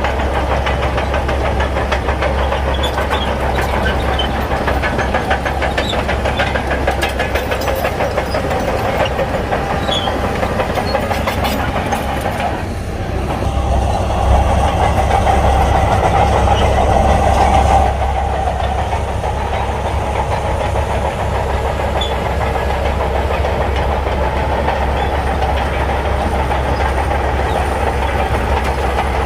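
Shantui crawler bulldozer's diesel engine running under load, with a rattling clatter of its tracks. The engine eases off briefly about halfway through, then works harder for a few seconds before settling back to a steady run.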